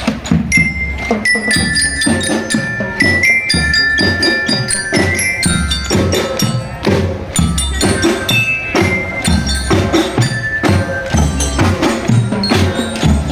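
Marching drum band playing: a bell lyre (glockenspiel) carries a melody over a steady beat of snare and bass drums.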